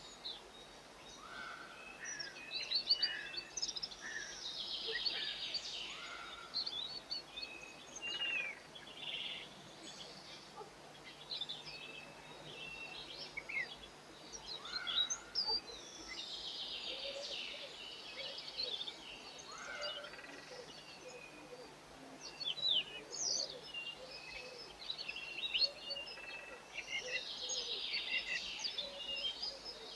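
Small songbirds chirping and twittering, many quick high notes overlapping continuously, with busier bursts of song a few times.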